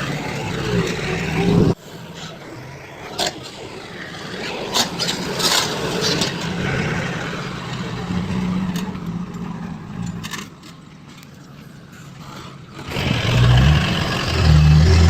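Heavy construction machinery engines running, with the sound changing abruptly about two seconds in and again near the end. In between it is quieter, with scattered clanks and scraping.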